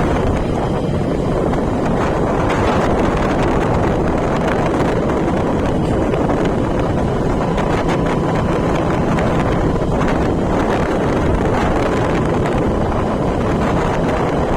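Steady wind rush buffeting the microphone over the running noise of a vehicle on the move, with a faint steady hum in the middle.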